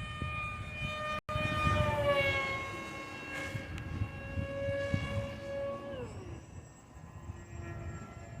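HobbyZone AeroScout S2 RC plane's electric motor and propeller whining in flight, the pitch dropping a little about two seconds in, holding steady, then falling away sharply about six seconds in as the throttle comes back.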